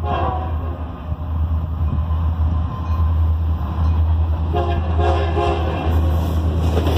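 Union Pacific diesel freight locomotives approaching, their low rumble growing louder. The air horn finishes one blast just at the start and sounds two more blasts in quick succession about four and a half seconds in.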